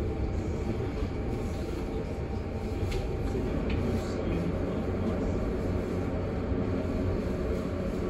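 Steady rumble of a Metra commuter train heard from inside the passenger car as it rolls along, with a few faint clicks around the middle.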